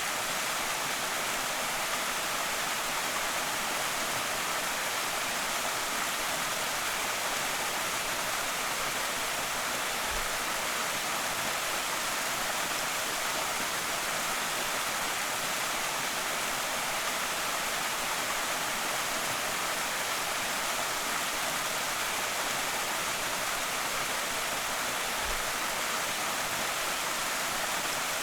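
Small creek waterfall, a steady rush of falling water that does not change. Two faint low thumps come at about 10 and 25 seconds.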